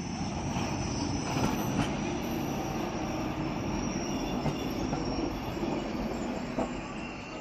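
Renfe train running along the track: a steady rumble of wheels on rail, with a thin high squeal over it.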